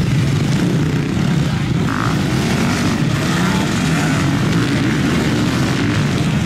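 Several off-road racing motorcycles running together on a stubble-field cross track, a steady blended engine drone with no pauses.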